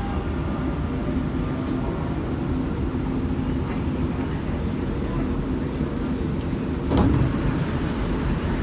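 Steady low rumble of a Dubai Metro train heard from inside the carriage as it runs toward the next station. A faint short high beep sounds about three seconds in, and a single knock comes about seven seconds in.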